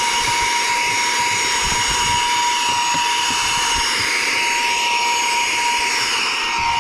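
Saker 3-in-1 cordless handheld vacuum's brushless motor running steadily, a constant high whine over the rush of air through the nozzle.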